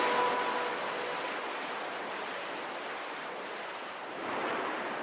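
Sea waves washing onto a sandy beach, a steady surf hiss with one wave surging louder about four seconds in.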